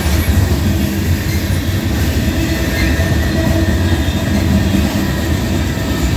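Freight cars of a long freight train rolling past at close range: a steady, loud rumble of steel wheels on the rails, with faint thin steady tones above it.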